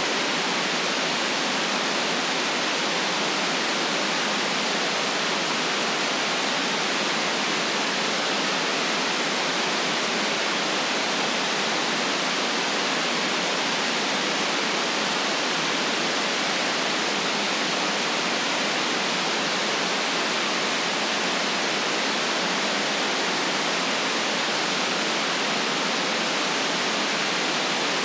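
Steady white noise: an even, unchanging hiss with little bass, played as a relaxation sound.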